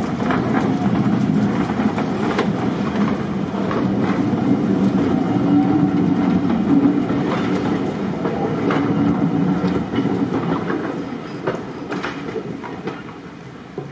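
Diesel-hauled train running on jointed track: a steady rumble with wheels clicking over the rail joints. It fades over the last few seconds.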